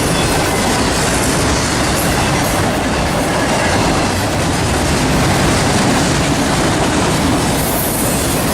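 Norfolk Southern train rolling past on the rails, a steady loud clatter of wheels on track.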